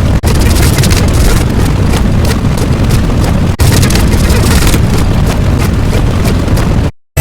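Loud, dense rumbling noise, like a heavy engine or blast sound effect, broken by two split-second dropouts and cutting off abruptly into a moment of silence near the end.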